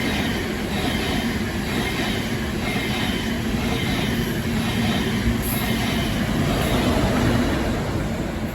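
Train running on the rails: a steady rumble with a faint, regular repeating pattern.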